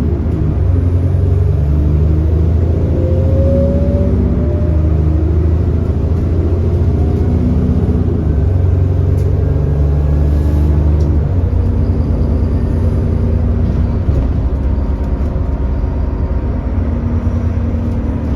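Cummins ISB 6.7-litre diesel engine of an Alexander Dennis Enviro400 bus running under way, a steady low engine drone whose pitch shifts, changing about twelve seconds in. The bus has an exhaust leak.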